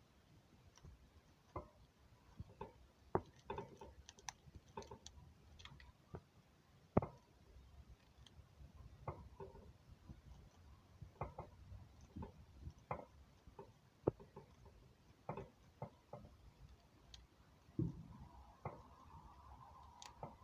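Scattered faint clicks and taps at irregular intervals, a few louder knocks among them.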